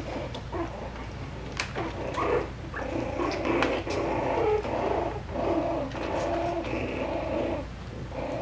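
Four-week-old Coton de Tulear puppies growling and grunting in short repeated bouts as they play-fight, loudest from about three seconds in, with a few light clicks.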